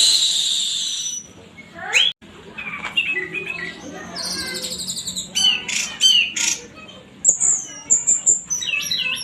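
Orange-headed thrush singing a fast, varied song of sweeping whistled glides, rattling phrases and harsh squawky notes.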